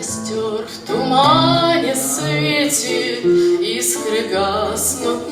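A woman singing a slow, melodic Russian romance in a wavering voice, entering about a second in, over an acoustic guitar accompaniment.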